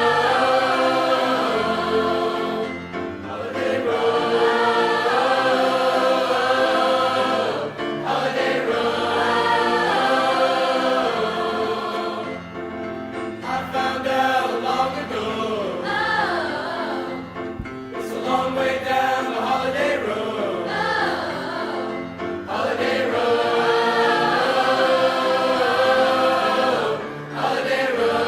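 Small high school vocal ensemble singing a Christmas song in harmony, in long held phrases of about four to five seconds with brief breaks between them.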